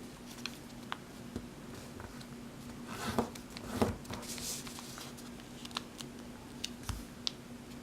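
A sheet of origami paper handled, folded and creased by hand: soft rustles and a few short, sharp crackles.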